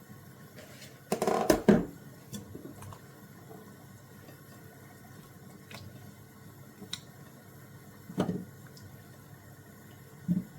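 Wet squishing from a pot of curry chicken and potatoes being worked, with knocks and scrapes. The loudest comes about a second in, with smaller knocks about eight and ten seconds in and a few light clicks between.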